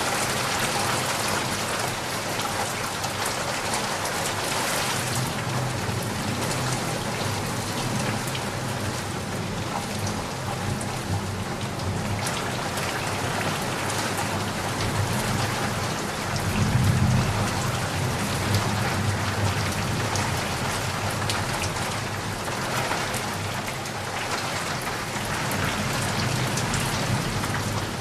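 Steady rain falling, an even hiss of drops, with a low rumble that swells briefly a little past the middle.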